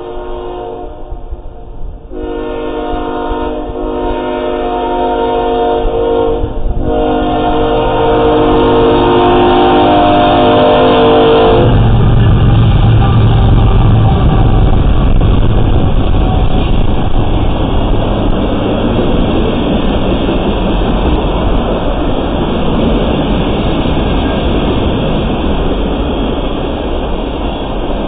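Horn of a CSX GE ES44AC freight locomotive blowing for a grade crossing as three blasts with short breaks, the last held until about 11 seconds in. Then the ES44AC diesel locomotives pass close by with a loud rumble, followed by the steady wheel and rail noise of tank cars rolling past.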